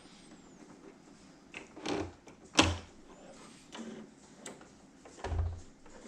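A handful of scattered knocks and clunks from handling at a sewing machine, the heaviest thump a little after five seconds in; the machine does not run a steady stitching rhythm.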